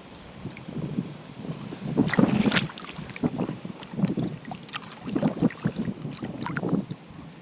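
Shallow puddle water sloshing and splashing in irregular surges, as a hand net is swept through it. The strongest surge comes about two seconds in, with several more after it.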